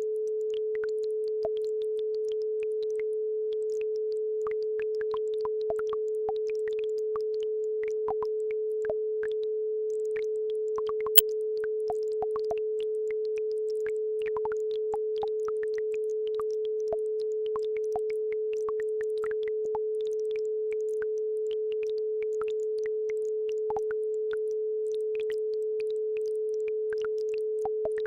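Steady pure tone at about 432 Hz, with faint scattered ticks and trickles from a babbling brook beneath it; one sharper click about eleven seconds in.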